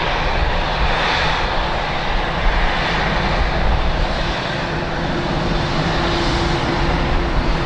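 Airliner engines running with a loud, steady rushing noise.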